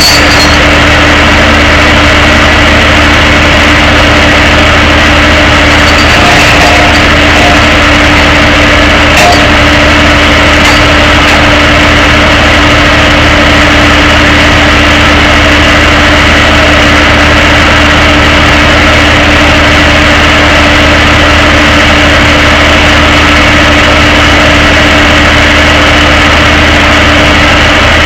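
Tow truck's engine idling with a steady, unchanging drone.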